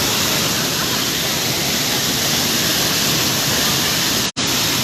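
Waterfall pouring steadily as a dense, even hiss, cut off for an instant about four seconds in.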